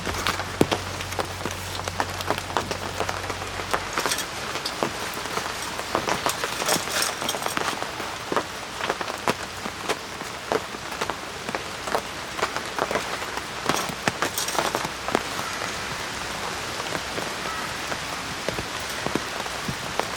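Rain falling steadily, with many separate drops striking close by as sharp ticks. A low hum runs under it for about the first four seconds, then stops.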